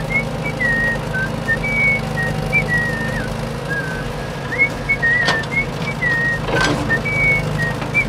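Whistling in short high notes and slides, a wandering tune, over a steady low engine hum; two sharp clicks about five and six and a half seconds in.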